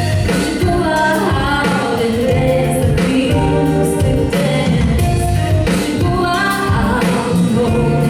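A live band plays a song with singing over a steady beat.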